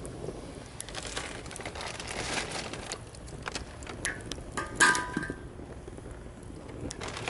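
Campfire wood crackling and popping in a fire stand, with a wash of surf behind it. About five seconds in, one sharp, short ringing clink.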